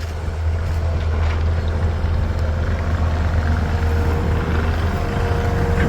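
Engine of a piece of heavy construction equipment running steadily, a constant low rumble. A steady higher tone joins about four seconds in.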